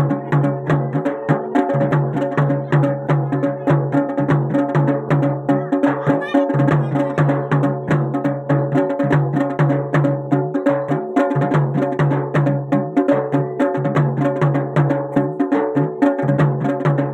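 Garhwali jagar folk music: fast, regular drum strokes over steady sustained pitched tones, with no singing.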